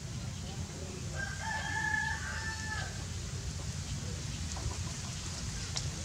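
A bird's call of about two seconds, held on steady tones and starting about a second in, over a low steady rumble.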